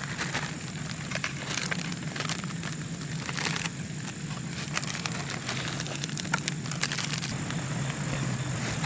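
Portable camp stove burning steadily with a low hum, under scattered crinkling and crackling clicks from handling of cooking gear.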